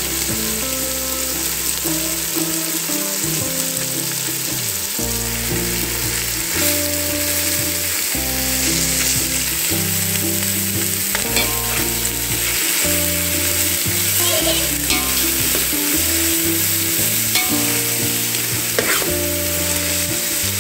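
Onions, tomatoes and ginger-garlic paste sizzling steadily as they fry in oil in a stainless steel pot, stirred with a metal spoon that scrapes the pot a few times.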